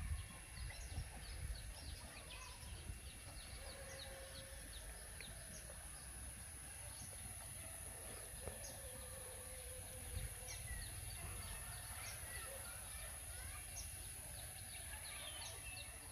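Outdoor ambience with many short, high chirps from small birds scattered throughout, over a steady high-pitched whine and a low rumble.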